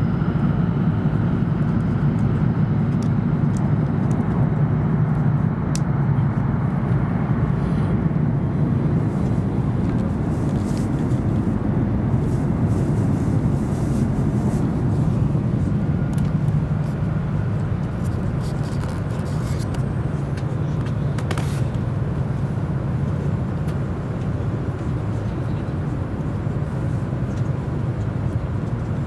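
E7 series Shinkansen running at speed, heard inside the passenger car: a steady low rumble of wheels on rail and rushing air, easing slightly about two-thirds of the way through.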